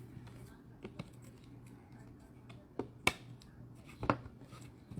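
Trading cards and plastic card holders being handled on a table: a few sharp clicks and taps, the loudest a little after 3 s and just after 4 s, over a steady low hum.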